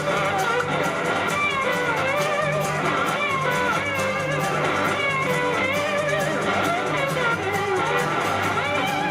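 Live country-rock band playing an instrumental break, an electric guitar lead out front with notes that slide and bend over a steady bass and drum groove.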